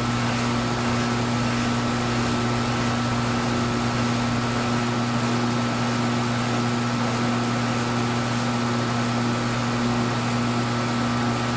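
Machine tool running steadily while the end of a stern tube is faced: an even electric-motor hum with a thin high whine above it, unchanging throughout.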